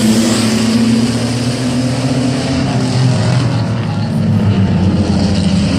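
A field of racing mini trucks accelerating hard together at the green-flag restart, engines running loud and steady.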